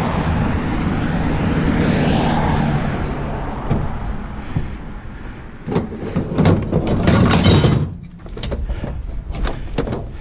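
Sheet metal of a stove being worked apart by hand: scraping and rattling, then a run of sharp metal clanks and knocks about six to eight seconds in.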